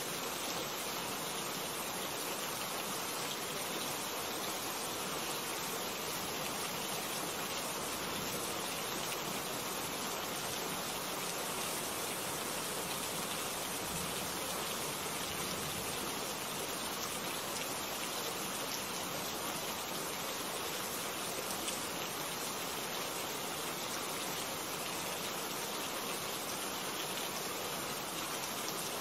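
Steady rain falling, an even hiss of countless drops that holds the same level throughout.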